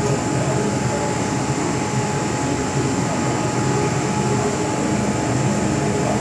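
Interior running noise of an MTR M-train (Metro-Cammell electric multiple unit) at steady speed: an even rumble of wheels and running gear with a thin steady whine.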